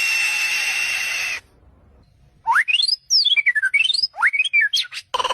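A steady high whistle tone with hiss that cuts off after about a second and a half. After a short pause comes a quick run of whistled chirps, sliding rapidly up and down in pitch.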